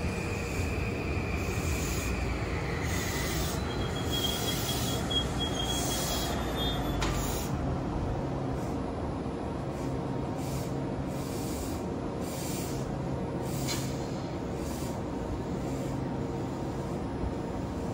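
Metro-North electric commuter train passing close by at speed: a steady rumble and rattle of wheels on rail with a low motor hum. A thin, high wheel squeal comes in briefly a few seconds in.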